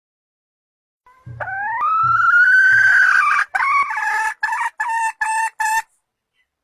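A junglefowl call played as a lure. It is one long note that rises and is held for about two seconds, then breaks into about five short, clipped notes and stops abruptly. Three faint low thuds sound under the start of the call.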